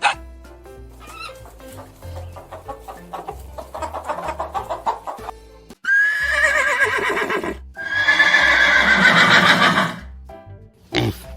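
Horse whinnying twice, about six and eight seconds in: each is a long, wavering call, the first falling in pitch. Background music plays under it.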